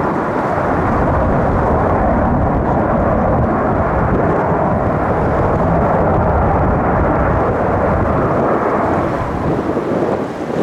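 Jet airliner's engines, a loud steady deep rumble, easing slightly near the end.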